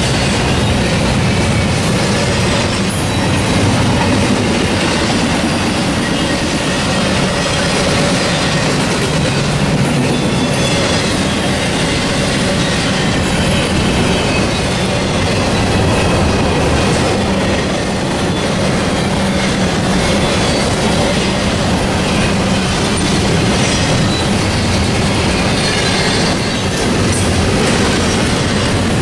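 Double-stack intermodal freight train's well cars rolling past: a steady rumble and clatter of steel wheels on the rails, with faint high wheel squeals now and then.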